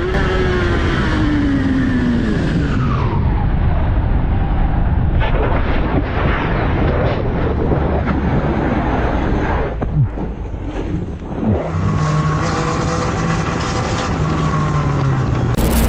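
Motorcycle engine running under way over wind noise, its pitch dropping as it slows over the first few seconds, then holding steady and falling again near the end, with a brief sharp sound about ten seconds in.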